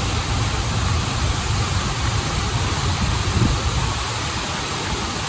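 Waterfall and stream: a steady rush of running water with a strong low rumble.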